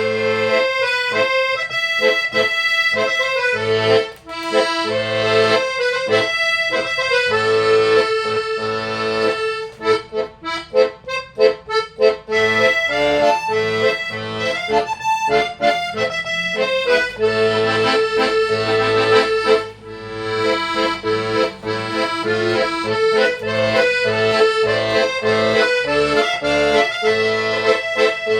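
Accordion playing a melody, with a repeating bass-and-chord accompaniment underneath.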